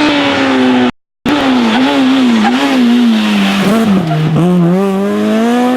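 Rally car engine running hard, its revs wavering up and down, dropping low about four seconds in, then climbing again. The sound cuts out completely for a moment about a second in.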